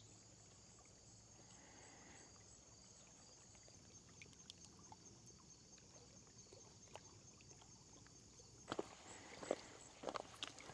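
Faint, steady, high pulsing chirr of insects over near silence. Near the end, footsteps start: a few loud steps.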